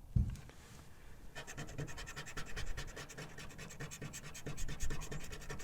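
A scratch-off lottery ticket being scratched, the coating scraped away in rapid repeated strokes that start about a second and a half in.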